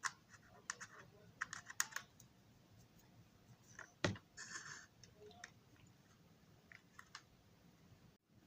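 Irregular small clicks and taps of plastic model-railroad car parts being handled and pressed into place, with one louder knock about four seconds in followed by a brief rustle.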